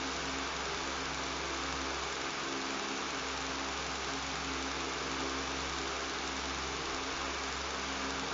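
Electric fan running steadily: an even airy hiss with a low motor hum and buzz underneath.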